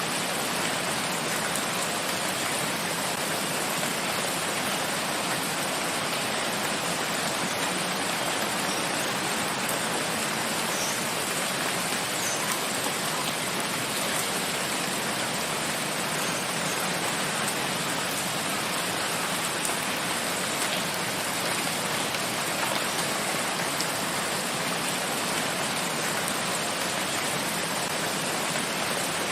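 Steady, even rain falling on forest foliage, a continuous hiss of many drops with no let-up.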